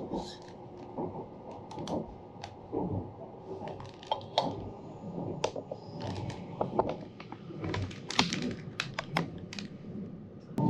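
Interior running noise of an E261-series electric express train, a steady low rumble, with irregular sharp clicks and ticks, several a second at times and busiest near the end.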